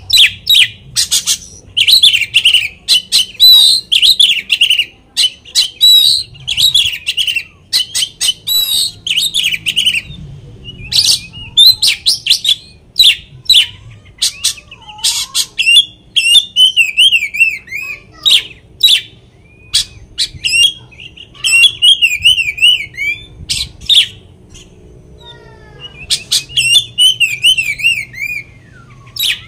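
Oriental magpie-robin (kacer) singing loudly: a varied song packed with mimicked phrases, sharp chirps and rapid warbling trills, with a brief lull about 24 seconds in.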